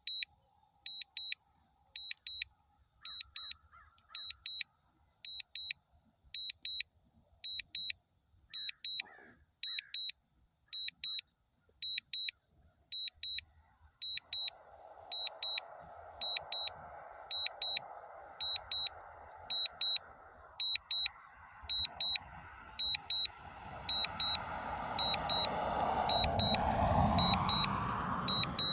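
DJI drone controller's low-battery warning: pairs of short high beeps, about one pair a second, for the drone whose battery is running out. About halfway a rushing noise comes in, grows, and is loudest near the end.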